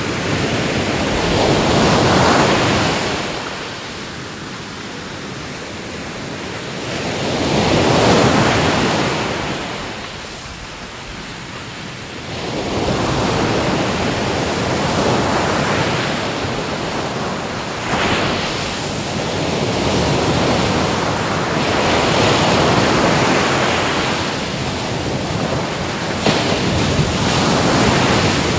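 Ocean waves breaking and washing on the shore, in slow surges: one crests about two seconds in and another around eight seconds, then the wash stays fuller and more continuous through the rest.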